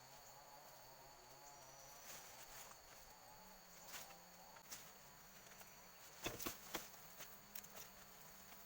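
Faint, steady high-pitched drone of forest insects such as crickets, with a few sharp clicks or knocks about six seconds in.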